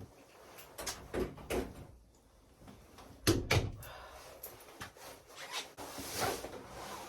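A door being opened and shut: a few knocks and bumps, the loudest two close together about three seconds in, followed by softer rustling.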